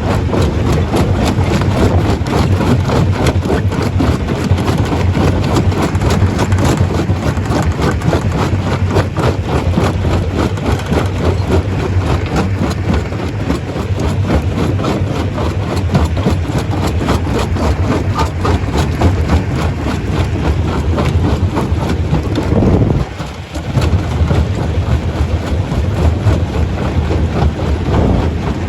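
Stone crusher running under load: a steady heavy-machine drone with a dense, continuous clatter of rapid knocks as rock is broken. About three-quarters of the way through the noise briefly drops, then resumes.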